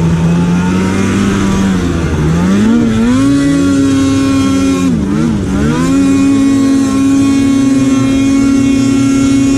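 Snowmobile engine running at high revs in deep powder. The throttle is eased off and opened again twice, about two and five seconds in, and the revs then hold steady and higher.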